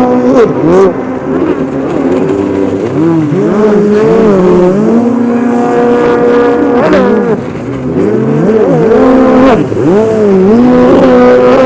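Several racing jet ski engines revving hard at once, their pitches rising and falling with the throttle and holding steady for stretches at full speed.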